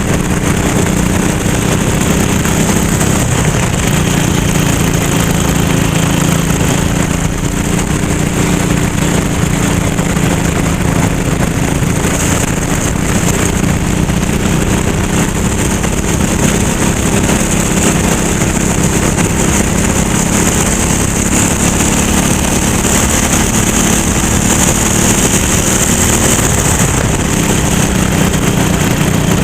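Kart engine running steadily at speed, with little change in pitch, over a constant rushing hiss.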